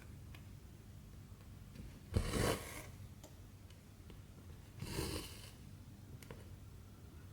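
Cotton embroidery thread being drawn through cross-stitch fabric with a short rasping swish, twice about two and a half seconds apart, with faint ticks of the needle in between.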